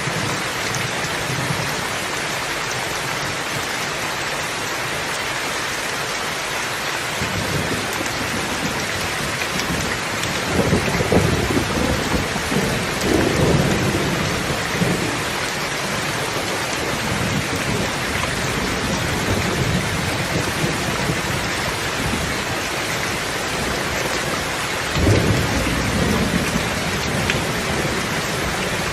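Steady heavy rainfall with thunder rumbling through it: a long rumble swells about a third of the way in, and a second one breaks in suddenly near the end.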